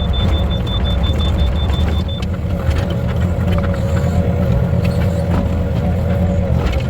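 A steady, loud, low machine rumble, like an engine running. A faint, evenly pulsing high tone stops about two seconds in, and a steadier mid-pitched tone comes in soon after.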